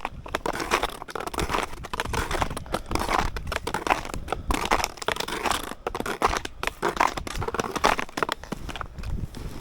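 Snowshoes crunching and scraping through wind-packed snow in repeated steps, with wind rumbling on the microphone.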